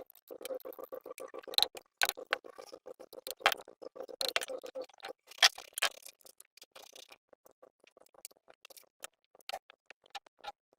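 Rapid, even clicking, about ten clicks a second, broken by a few louder sharp knocks. After about five seconds it thins out to scattered clicks.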